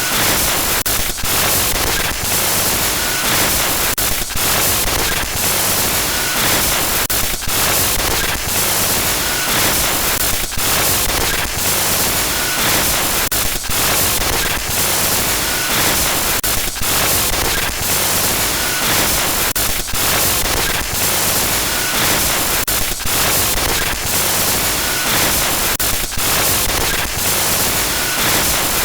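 Glitch-noise horror sound effect: loud, dense static hiss, broken by short dropouts every second or two.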